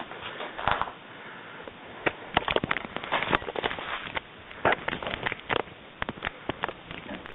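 Airsoft gunfire: many sharp, irregular shots, some in quick clusters like short bursts.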